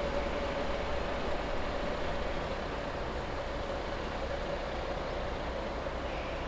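Distant red regional train pulling away down the line: a steady rumble with a faint whine that slowly drops a little in pitch and fades.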